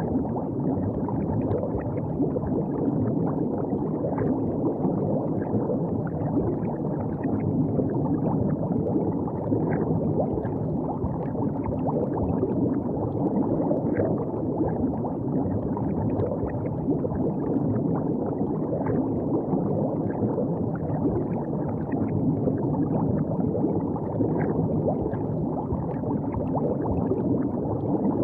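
River water flowing and gurgling in a steady low rush, with small splashes dotted through it.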